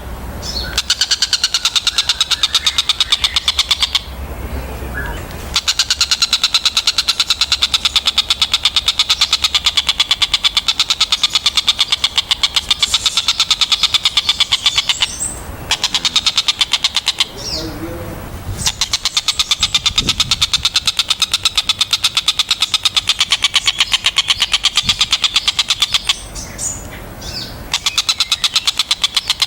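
Tengkek buto kingfisher calling: long, fast, evenly repeated strings of sharp, high notes, broken by brief pauses a few times.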